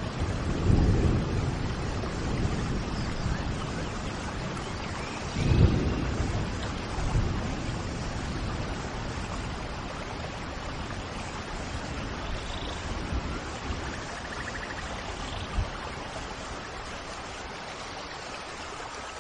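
Steady rain with low rolls of thunder swelling about a second in and again around five and seven seconds, then easing off; a few faint bird chirps sound through it.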